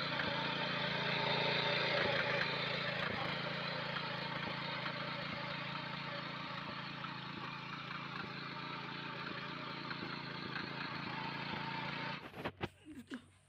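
A 7 HP power weeder's small engine running steadily, stopping abruptly about twelve seconds in, followed by a few faint clicks.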